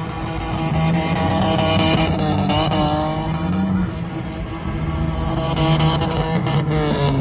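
Car engine revving, mixed with rap music with a guitar line.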